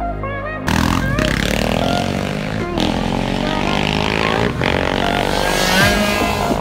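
Background music cuts off abruptly, under a second in, to a small motorbike engine revving hard, its pitch climbing near the end.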